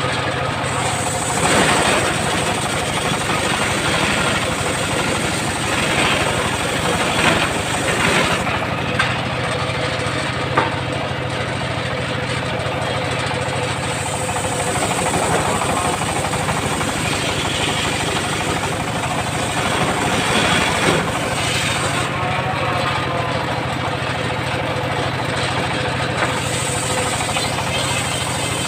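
Engine of a homemade circular sawmill running steadily, with a few brief louder swells and knocks.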